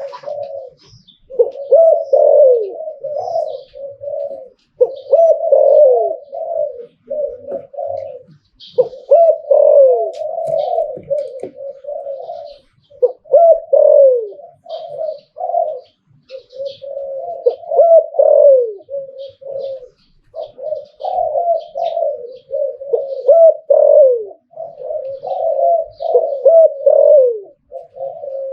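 A male spotted dove cooing over and over in phrases of a few seconds each, with falling notes and short pauses between phrases. This is the 'liu tan' cooing style that Thai dove keepers prize. Faint small-bird chirps sound in the background.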